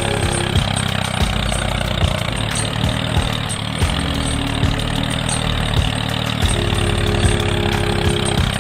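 Engine idling steadily, with a regular knock repeating a little under twice a second.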